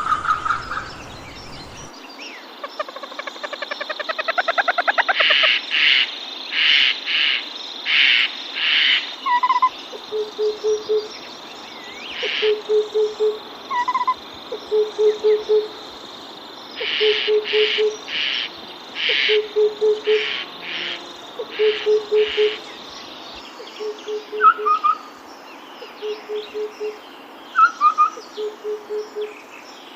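Tropical forest chorus of several birds. A low call of three or four quick hoots repeats about every second and a half. Loud clusters of high chirps come in groups, an accelerating, rising trill sounds in the first few seconds, and a steady high whine stops a little after two-thirds of the way through.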